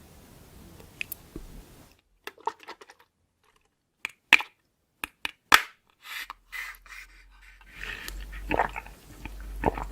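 Close-up eating sounds: sharp crunches from biting into crisp food, followed by chewing.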